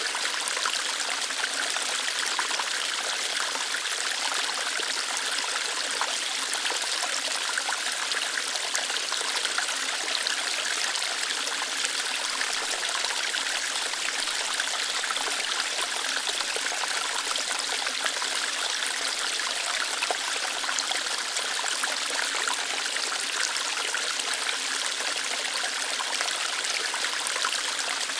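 Small waterfall flowing lightly over rocks: a steady rush of water with fine splashing and trickling, unchanging throughout.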